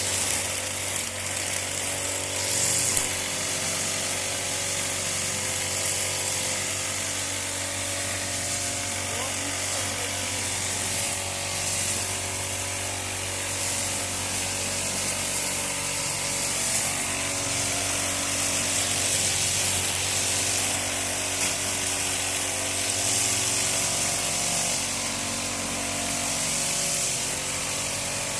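A small engine-driven power tool running steadily, its pitch holding nearly even throughout.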